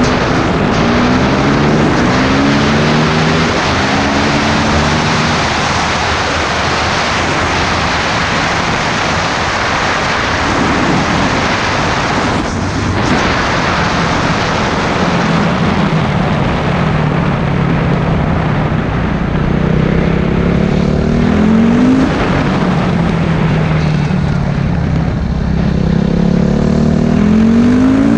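Motorcycle engine accelerating through the gears while riding, its pitch rising and dropping back with each shift, over loud wind rush.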